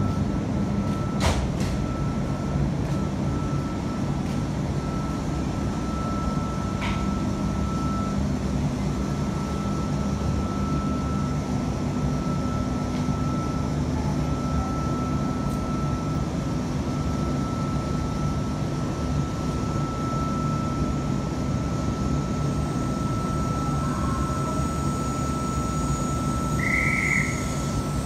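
Steady hum of a stainless-steel double-deck electric train standing or creeping at the platform: a low drone with a thin, steady whine above it. A short high chirp sounds near the end.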